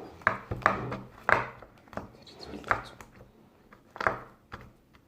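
Handling noises: about five short, sharp clicks or taps at uneven intervals, with quieter rubbing in between.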